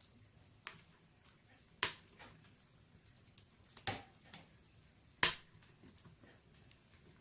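Wood fire burning in a fireplace, crackling: scattered faint ticks and three sharp, loud pops of burning logs, at about two, four and five seconds in.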